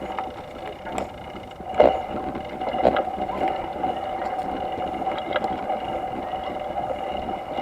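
Bicycle rolling over a bumpy road, rattling with a steady hum and a few sharp knocks as it hits the bumps.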